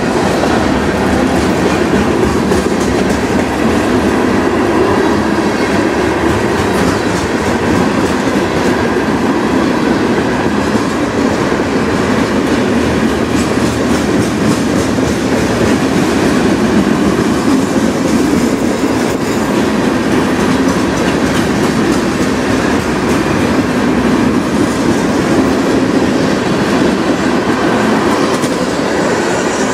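Freight train cars rolling past close by: a steady rumble of steel wheels on the rails, with clicking as the wheels cross rail joints.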